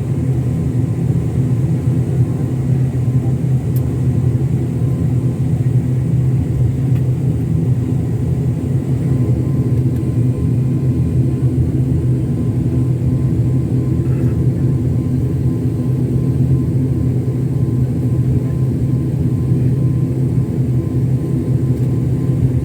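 Airliner cabin noise with the engines running at low power on the ground before takeoff: a steady, unchanging low hum with several constant tones.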